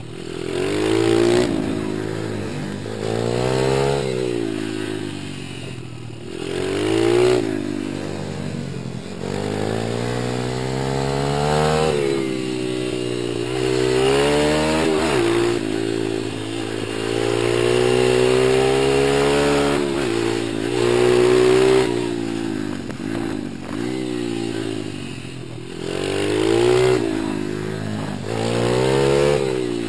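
Small single-cylinder four-stroke pit bike engine repeatedly revving up and easing off. Its pitch climbs and drops every two to four seconds as the rider accelerates, shifts and rolls off the throttle.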